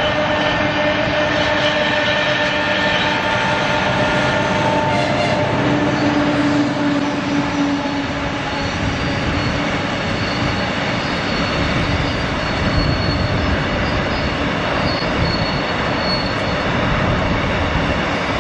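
Soviet-built M62 'Taigatrommel' diesel locomotive running under power, its two-stroke V12 diesel giving a steady, loud drone.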